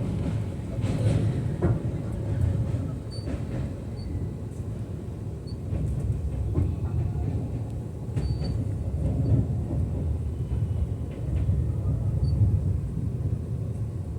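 Train running on the rails: a steady low rumble with scattered clicks and knocks and a few faint high squeaks.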